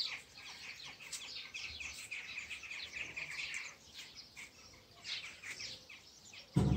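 Small birds chirping rapidly in overlapping calls, busiest in the first half. A single loud thump near the end.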